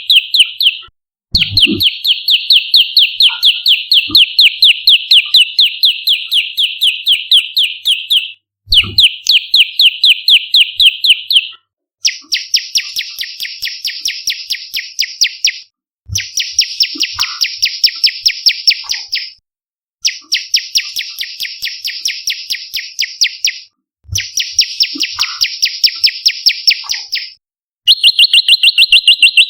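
Olive-backed tailorbird (prenjak lumut) calling: fast runs of sharp, repeated chirps, about six a second, in bursts of several seconds broken by short pauses. The middle bursts are harsher and spread higher than the clearer first and last runs.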